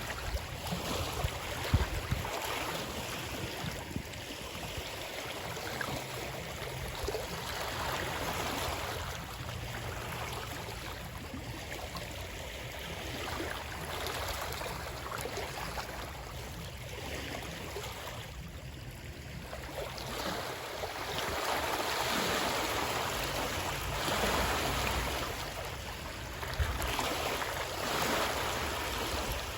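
Running water: a steady rushing wash that swells and eases every few seconds, with a few low knocks.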